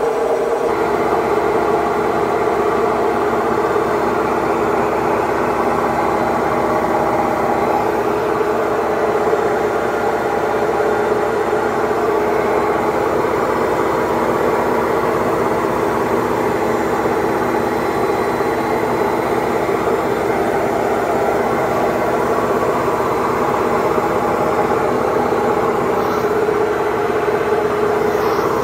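Haier HW60-10636A washing machine running with a steady motor hum and whine, filling out a little in the low end about half a second in.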